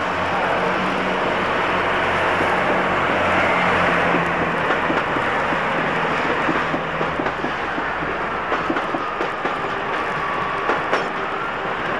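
A passenger train running through the station with a steady low drone, then a rapid run of wheel clicks and clatter over the rail joints. A faint whining tone rises near the end.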